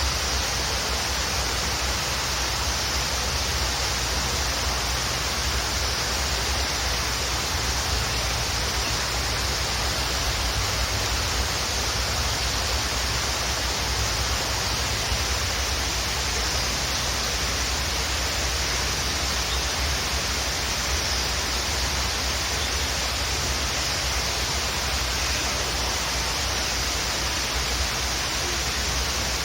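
Waterfall: a steady, even rush of falling water with a low rumble beneath it, and a few faint, high bird chirps now and then.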